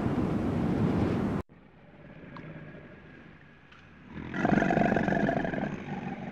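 Rushing, wind-like noise that cuts off abruptly about a second and a half in. After a quiet gap, a large animal gives a loud, drawn-out call, about two seconds long, starting about four seconds in.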